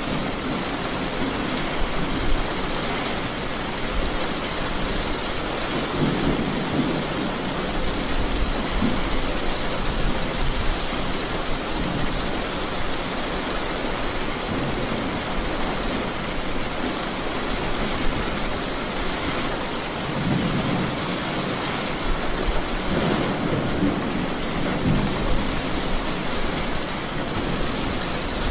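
Steady rain falling in an even hiss, with low rolling thunder rumbling three times: about six seconds in, then twice in the last third.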